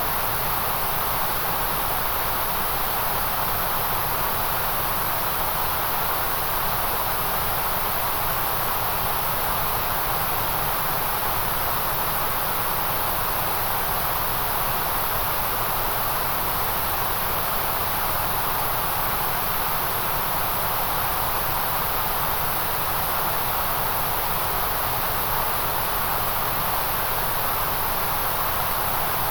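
Generated white noise: a steady, unchanging hiss with no rhythm or breaks, brightest in the middle range and at the very top.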